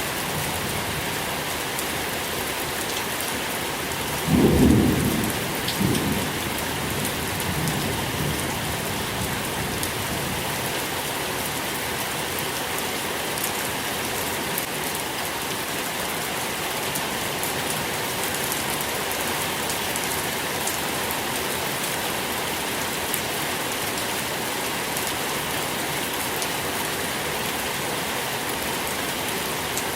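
Steady rain falling, with a roll of thunder about four seconds in: a loud low rumble that swells once or twice more and dies away within a few seconds.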